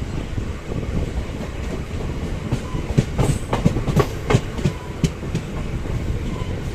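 MEMU train running with a steady low rumble. About halfway through comes a quick run of sharp clicks: the wheels clattering over rail joints.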